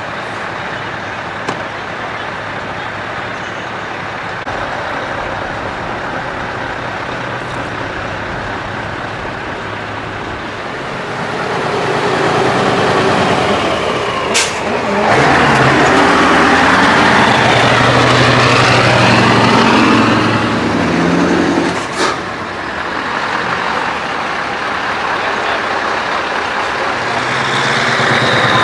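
Heavy truck diesel engines running as trucks move slowly past. One truck comes close and gets much louder from about 11 to 21 seconds, its engine note shifting up and down, with two short sharp sounds near 14 and 22 seconds.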